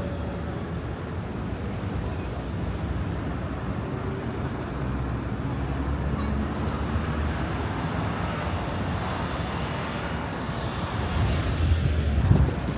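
Road traffic: a steady rumble of passing vehicles, with one coming close and loudest near the end.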